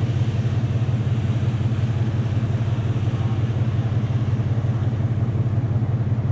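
Dodge Challenger's engine running steadily, heard from inside the car as a constant low drone.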